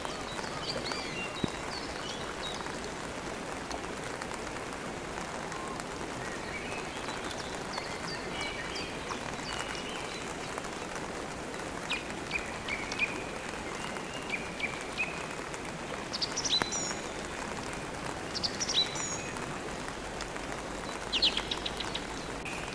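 Steady rain, with birds chirping and twittering over it in short high bursts, more often in the second half.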